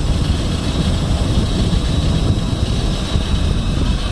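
Towing tractor running during a test drive: a steady low rumble with a faint, steady high whine over it.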